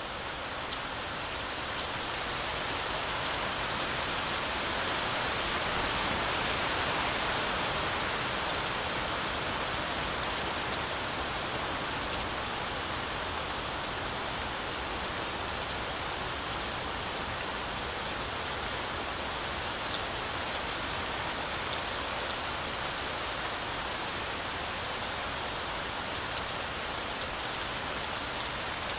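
Heavy rain falling steadily on a forest canopy, a continuous even hiss that swells slightly a few seconds in, with faint drop ticks.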